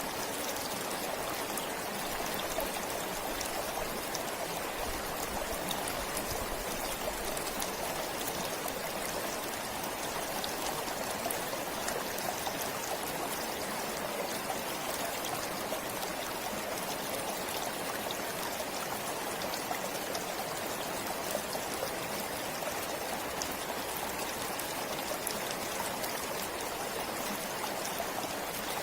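Forest stream flowing steadily over stones, a constant rushing and trickling of water with small splashes.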